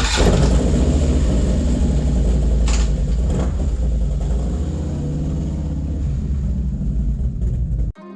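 Harley-Davidson Road Glide's V-twin engine running steadily at highway cruising speed, mixed with the rush of wind, then cut off abruptly near the end.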